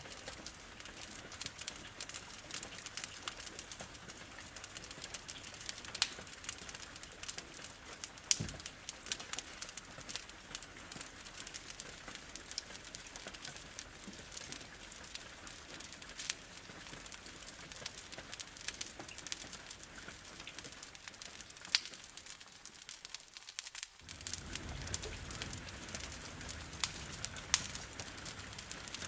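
Wood fire crackling, with frequent sharp pops and snaps at irregular intervals, over a steady hiss of rain. About 24 seconds in, a low steady sound joins underneath.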